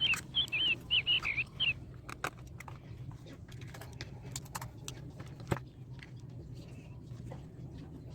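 A bird sings a short run of quick warbling chirps at the start. Scattered small clicks and taps follow, with one sharper knock about five and a half seconds in, over a steady low hum.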